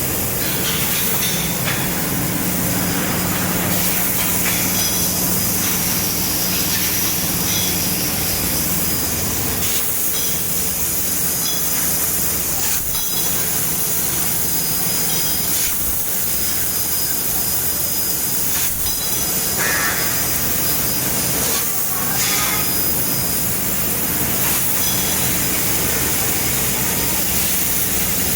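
3 kW fiber laser cutting machine running: a steady hiss with a steady machine hum beneath it, broken by a few short changes.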